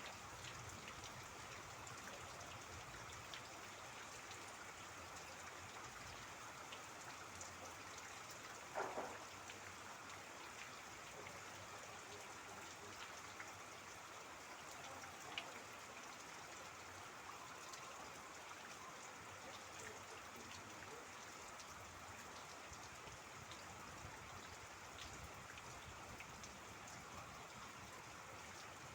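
Faint steady rain with trickling water, scattered drops ticking, and one louder drop about nine seconds in.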